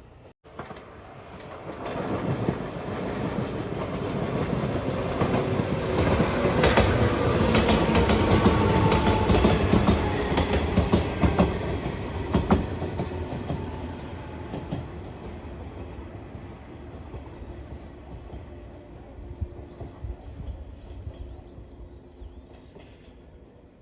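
A train passing over a level crossing: its rumble builds over a few seconds, wheels click over the rail joints as it goes by, then the sound fades away. Birds chirp faintly near the end.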